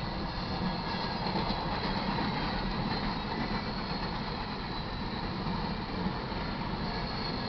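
Empty TTX intermodal well cars of a freight train rolling steadily past, their wheels rumbling on the rails.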